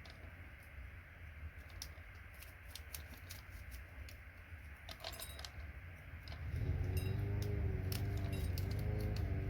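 Light metallic clicks and clinks of wire cutters and scrap metal parts being handled while cable is cut from connector scrap. About two-thirds of the way through, a louder steady sound with several wavering pitched tones sets in and carries on.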